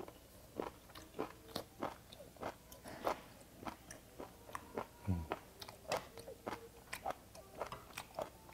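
Close chewing of beef omasum (cheonyeop): a run of short crunchy, clicking bites about two a second as the slightly tough, chewy tripe is worked in the mouth.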